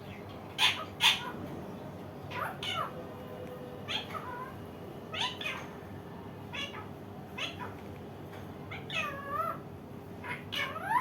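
Indian ringneck parakeet making a string of short calls, each sliding in pitch, about one a second, with two loud sharp squawks about a second in and a longer wavering call near the end.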